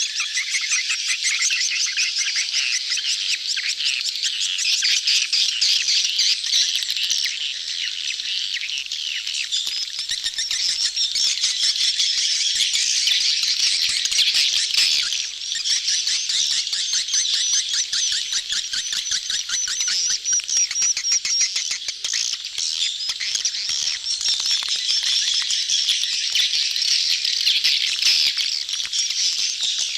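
A crowd of edible-nest swiftlets twittering and clicking in a dense, unbroken chorus of rapid high chirps: the busy mating-season colony call used as a lure sound for swiftlet houses.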